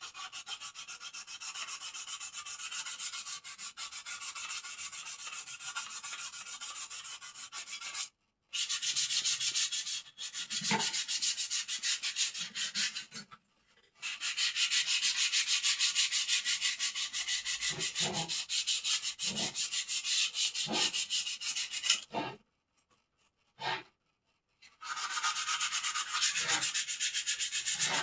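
A bird cage being sanded smooth: a fast, steady scratchy rasp of abrasive rubbing, broken off abruptly a few times, with a few soft knocks in the second half.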